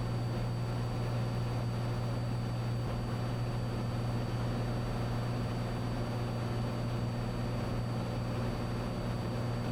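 Cessna 182's engine and propeller droning steadily in cruise, heard inside the cabin: an even low hum with no change in power.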